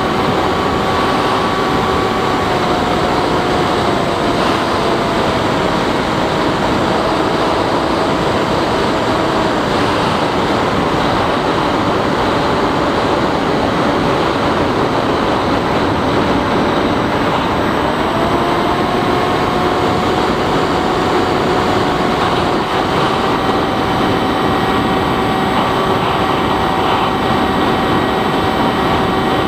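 Bixler 3 RC plane's electric motor and propeller whining in flight over a steady rush of wind. The pitch eases down a few seconds in as the throttle comes back and climbs again a little past halfway as power is added.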